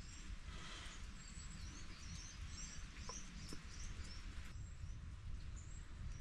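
Small birds chirping again and again, short high calls, over a steady hiss and low rumble of background noise.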